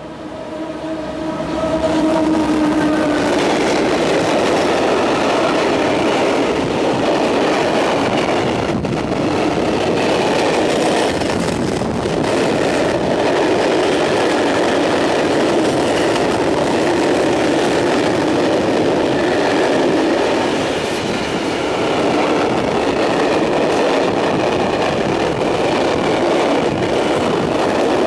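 A freight train hauled by an SNCF BB7200-class electric locomotive passing close by, then its wagons rolling past with a steady rumble and rattle of wheels on rail. The sound swells to full loudness within the first two seconds as the locomotive arrives, with a steady tone heard for the first few seconds.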